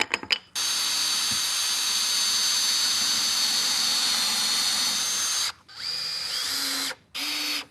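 Power drill running with a combination pilot-hole and counterbore bit boring into wood: one steady run of about five seconds with a high motor whine, then two shorter runs near the end, the first rising in pitch as it spins up.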